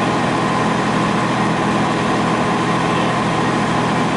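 Semi-truck's diesel engine running steadily, heard from inside the cab, with a steady hum and road noise.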